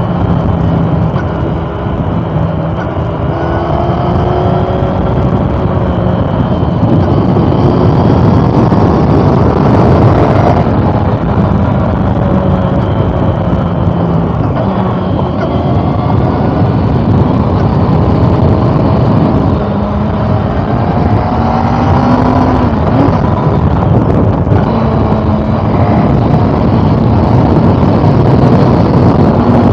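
2013 Honda CB400 Super Four Revo's inline-four engine running while the bike is ridden. Its pitch climbs and drops again several times as the revs rise and fall, over a steady rush of wind noise.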